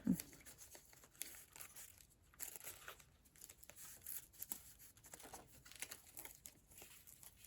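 Paper pages of a handmade junk journal being turned and handled: faint rustling and crinkling with scattered small ticks.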